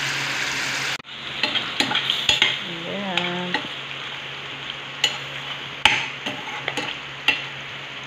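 Chicken livers frying in oil in a stainless steel pot. There is steady sizzling at first; after about a second it drops to quieter sizzling, broken by repeated sharp clicks and scrapes of a metal spatula stirring against the pot.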